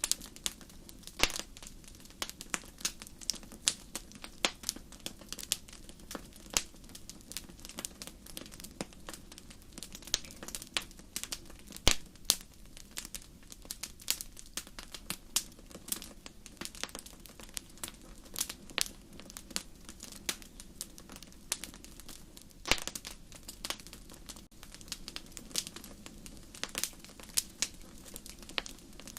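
Wood fire burning, a steady low hiss under irregular sharp crackles and pops, a few louder snaps.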